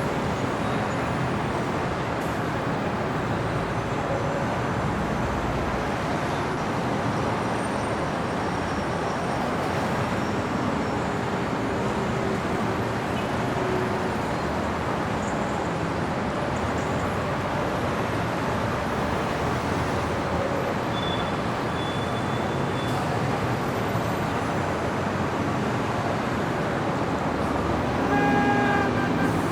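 Steady city street traffic: a continuous wash of car engines and tyre noise. Near the end a vehicle horn sounds once, briefly.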